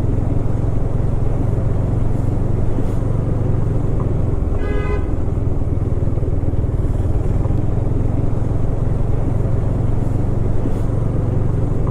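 A KTM Duke 250's single-cylinder engine runs steadily under a low riding rumble. A vehicle horn honks once, briefly, about four and a half seconds in.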